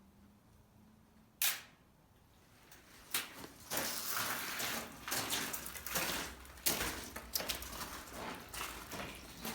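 One sharp knock about a second and a half in, then footsteps crunching and scraping irregularly on a gritty floor.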